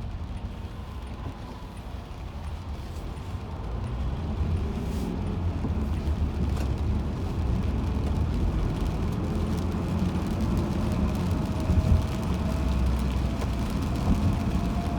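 Car driving on the road: a steady low rumble of tyres and engine that grows louder about four seconds in as the car picks up speed, with a faint rising whine near the end.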